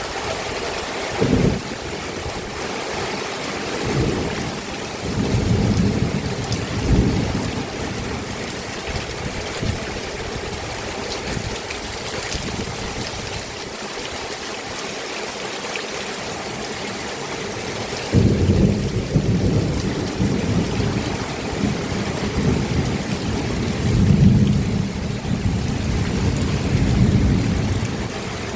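Steady rain falling, heard as a constant hiss, with irregular bursts of low rumbling in the first few seconds and again from about two-thirds of the way through.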